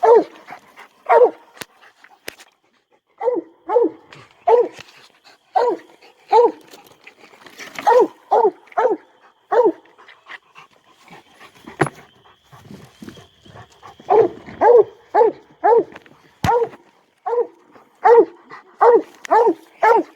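Coonhound barking at a tree in a steady string of short, chopping barks, often about two a second, with a pause of a few seconds just after the middle. This is its treeing bark, telling the hunter a raccoon is up the tree.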